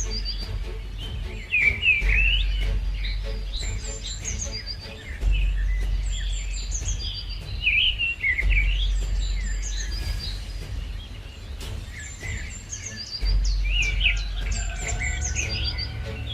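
Many small birds chirping and calling in quick overlapping phrases, over a deep low hum that sounds for a few seconds at a time and drops away in between.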